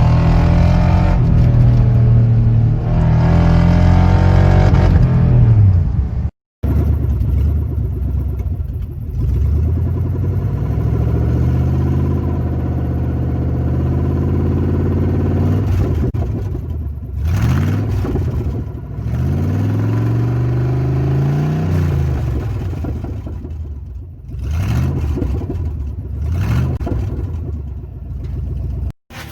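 1996 Chevy truck engine through a full straight-pipe exhaust, run from headers to turndowns, rumbling loudly and being revved several times, the pitch rising and falling with each blip. There is a short break about six seconds in.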